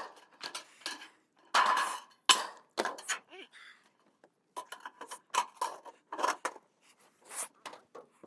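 Irregular sharp metallic clinks and clatters of metal pieces being handled.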